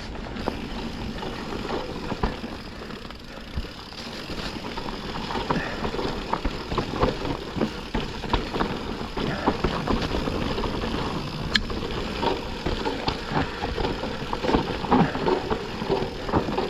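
Yeti SB160 enduro mountain bike descending a rough trail: steady tyre noise over dirt and stones, with frequent knocks and rattles from the bike over the bumps.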